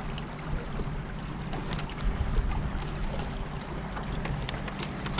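A boat under way on the river: a steady low motor hum under a wash of water and wind noise, with a few faint clicks.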